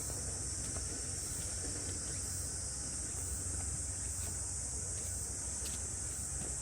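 Summer cicada chorus in the forest, a steady high-pitched buzz that never lets up, over a low rumble and faint scattered ticks.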